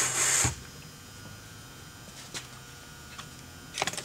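A short, loud hiss that cuts off about half a second in, then a quiet steady hum with a few faint clicks near the end.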